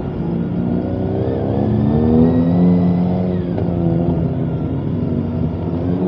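Motorcycle engine accelerating, its pitch climbing, dropping briefly about three and a half seconds in as it shifts up a gear, then climbing again.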